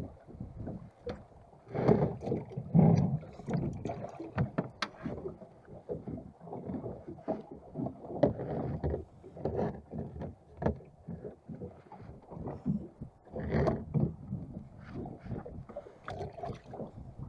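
Water slapping irregularly against the hull of a small wooden boat, with scattered knocks and clicks.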